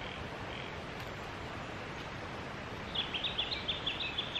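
Steady rush of flowing river water, with a bird giving a quick run of short, high chirps about three seconds in.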